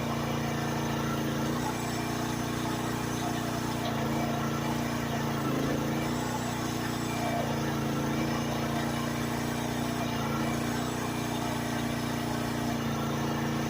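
Small engine of a 1-ton Chinese mini excavator running steadily while it grades dirt, with small shifts in pitch every few seconds.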